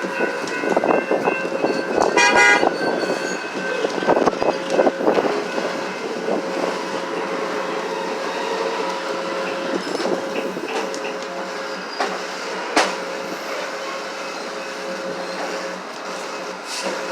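Passing train rolling on the rails, with steady squealing tones from the wheels and a few sharp clacks over rail joints. A short toot sounds about two seconds in.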